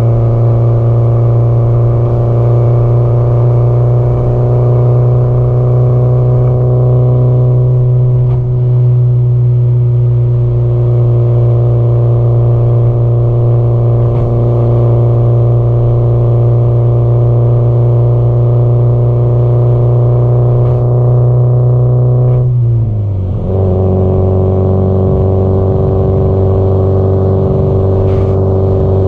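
Subaru Impreza WRX STI (GDB-E) turbocharged flat-four boxer engine and exhaust at steady cruising revs. About three-quarters of the way through, the engine note drops sharply in pitch, then holds steady at the lower pitch.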